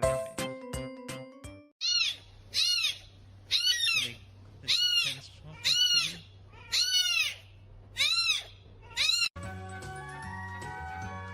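A cat meowing about eight times in a row, each meow short and high, rising then falling in pitch. Music plays before and after.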